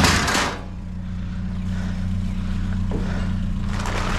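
An engine idling steadily under a loud clatter right at the start and a rough scraping, rustling noise near the end.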